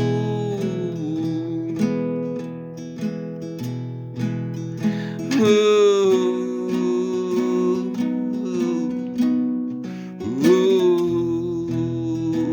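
Instrumental break in a country ballad: acoustic guitar strumming steadily under a lead melody of long held notes, which slides up into a new note about five seconds in and again about ten seconds in.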